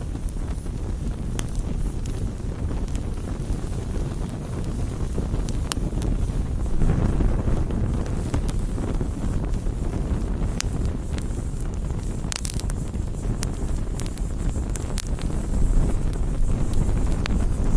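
Campfire burning, with scattered sharp crackles and pops over a steady low rumble of wind on the microphone. The rumble swells about seven seconds in and again near the end.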